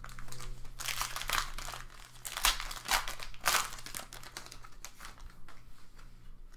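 Plastic-foil wrapper of a Panini Optic football card pack being torn and crinkled, in several crackling bursts over the first four seconds, then fainter rustling as the cards are handled.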